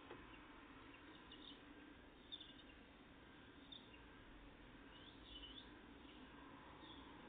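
Faint, short high chirps from small songbirds, several times over a quiet background hiss, with an arched call about five seconds in.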